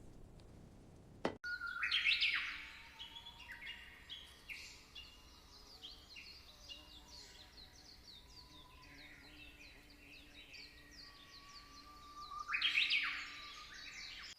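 Small songbirds chirping and singing in a dense chorus of short, quick notes. Louder bursts of song come about two seconds in and again near the end.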